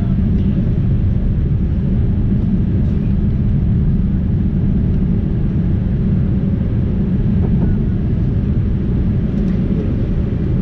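Steady low rumble of a Boeing 787-8 airliner in motion, with engine and airflow noise heard from inside the cabin. The level holds even throughout.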